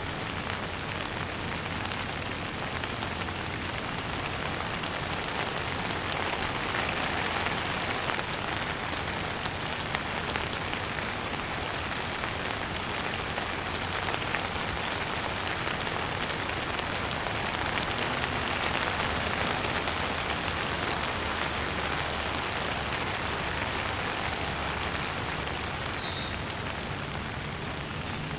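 Steady rain falling, an even hiss of many drops that swells slightly now and then. A single short bird chirp near the end.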